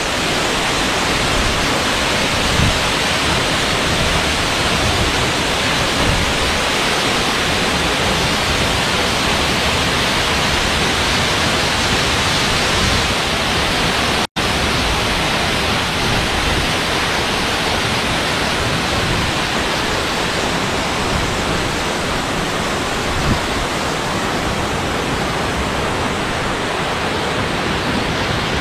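Steady rushing of Gumawang waterfall, falling water heard close up. The sound drops out for an instant about halfway through.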